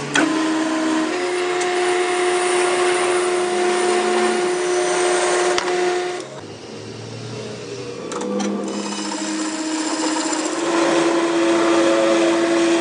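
Metalworking machine running with a steady hum and a hiss of cutting, quieter for a couple of seconds past the middle and then picking up again.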